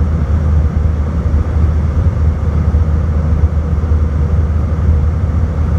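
Airbus A319 cabin noise at the exit row in flight: a steady, loud low rumble of the jet engines and airflow, with a faint steady hum above it.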